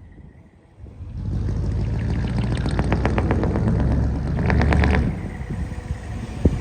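Hino Profia truck's V8 diesel through dual mufflers. The exhaust rises about a second in to a loud, steady rumble of even pulses, then falls away after about five seconds. A single sharp click comes near the end.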